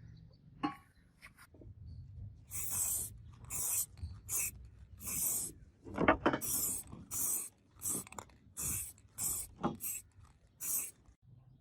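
About a dozen rasping strokes of an abrasive on steel, nearly two a second, as in sanding or sharpening a sword blade by hand. The strokes begin a couple of seconds in, after a few light clicks.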